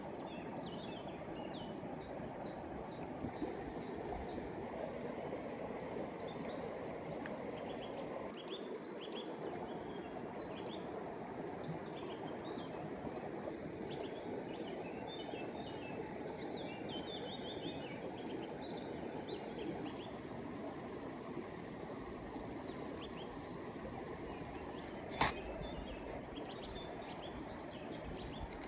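Creek water running steadily, with small birds chirping now and then and a single sharp click near the end.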